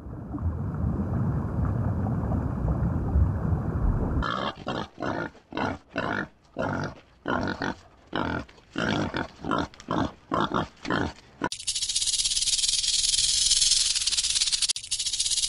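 A low rumbling noise for about four seconds, then pigs grunting in short, regular bursts, about two a second. Near the end the grunting cuts off and a snake takes over with a steady high hiss.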